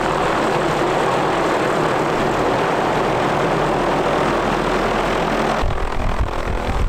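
Aircraft engine running steadily, a loud even drone. Near the end, wind starts buffeting the microphone.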